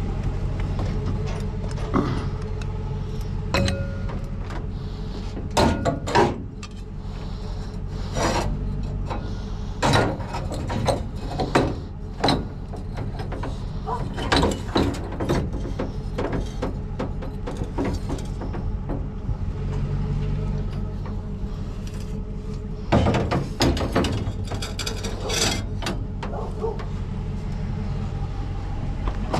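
Scattered knocks and clatter of hard objects, in clusters, over a steady low rumble.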